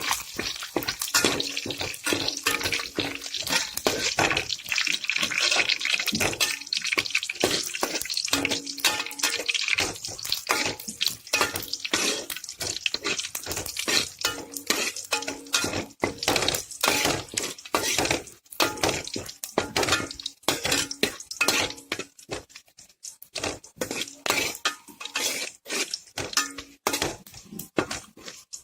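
A metal spoon or spatula stirring and scraping in a pan with irregular clinks and scrapes, over oil sizzling as chopped chillies, dried red chillies and curry leaves fry in it. The sizzle is stronger in the first half.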